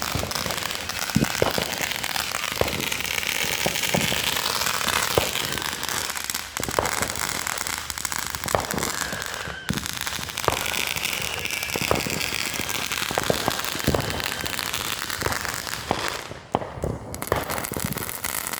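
Consumer fireworks going off: a dense, continuous crackle with many sharper pops scattered through it, dipping briefly about ten seconds in and again near the end.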